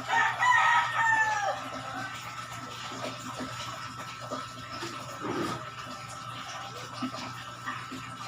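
A rooster crowing once, a call of about a second and a half that falls in pitch at the end, over a thin steady hum.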